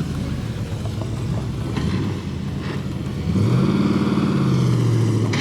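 A vehicle engine running, rising in pitch a little over three seconds in and then holding a steady, loud note.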